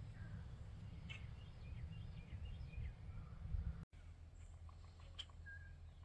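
Faint birdsong: scattered short chirps and calls over a steady low rumble, with the sound cutting out for an instant just before the four-second mark.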